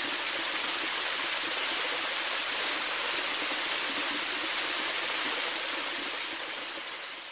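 Steady, even rushing noise like rain or running water, fading out near the end.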